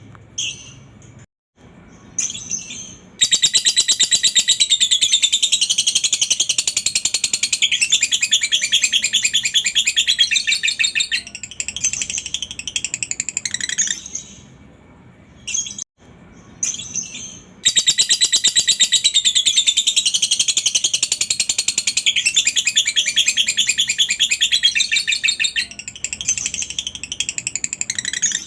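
Lovebird giving its long 'ngekek' song: a rapid, high-pitched chattering trill held for about ten seconds, twice, with short calls before and between the bouts.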